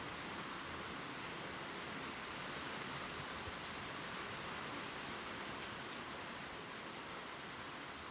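Gentle rain falling on leaves: a steady hiss with faint scattered drop ticks.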